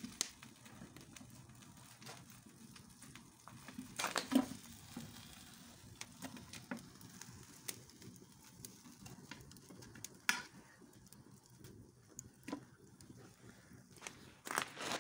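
Faint crackling from a fire's embers, with scattered clicks and a few louder knocks about four seconds in, around ten seconds in and near the end.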